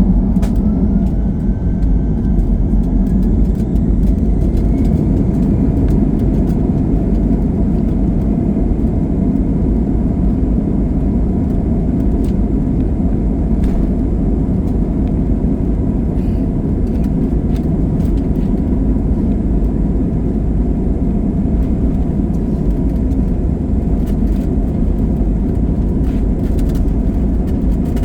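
Jet airliner's engines heard from inside the cabin: a whine rises in pitch over the first few seconds as the engines spool up, then a steady, loud rumble and roar as the aircraft runs down the runway on its take-off roll.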